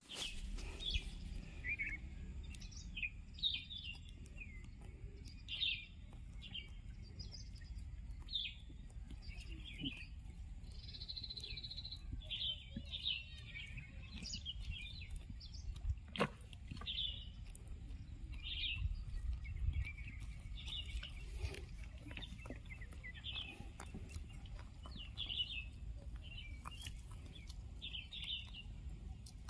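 Small birds chirping: short high chirps scattered every second or so, over a steady low rumble. One sharp click comes about halfway through.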